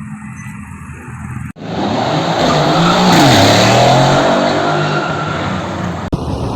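A sports car engine runs quietly for about a second and a half. A much louder car engine then cuts in suddenly, revving hard, its pitch dropping and then climbing again. It breaks off abruptly about six seconds in.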